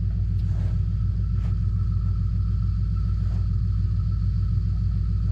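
Pickup truck engine idling steadily with a low rumble, with a few faint clicks over it.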